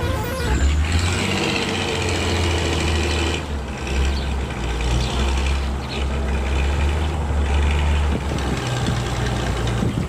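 A truck engine running with a steady low rumble.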